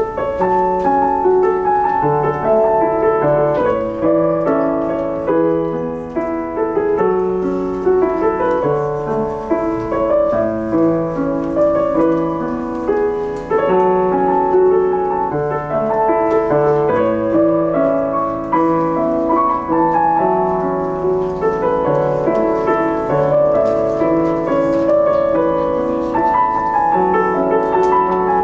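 Solo piano playing a continuous piece, a steady stream of melody notes over a moving bass line, coming in loudly at the start after a quieter passage.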